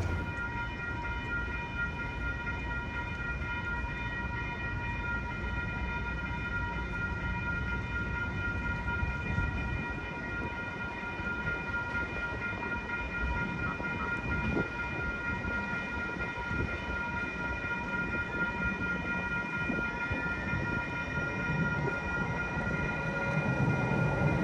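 Railroad crossing warning bells ringing steadily, as a stack of high tones held over a low rumble of traffic and rail noise. Near the end a low rumble builds as a tram draws closer.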